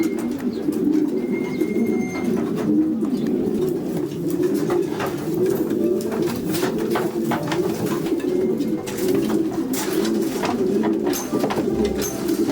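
Many racing pigeons cooing together in an enclosed loft, a dense overlapping chorus, with scattered sharp clicks and taps among them.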